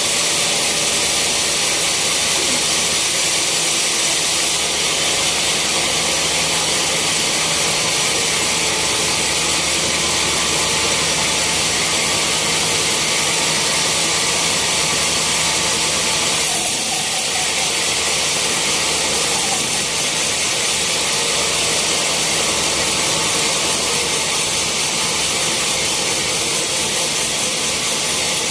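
Sawmill saw running steadily through a teak log: a loud, even hiss with a low hum beneath, changing slightly about halfway through.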